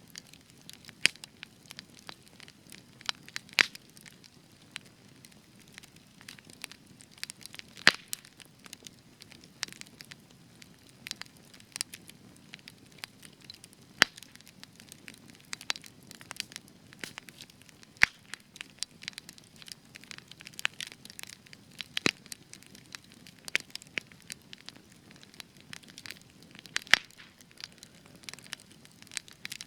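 Spruce wood burning in a campfire, crackling steadily with a soft low hiss and frequent sharp pops at irregular intervals, a few much louder than the rest.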